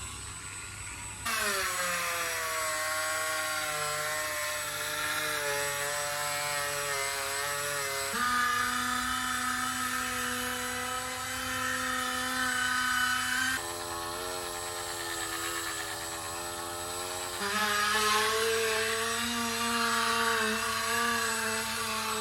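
Cordless Dremel 8220 rotary tool running with a polishing pad on the stainless steel lip of a split-rim wheel, a steady whine that starts about a second in and steps to a different pitch a few times.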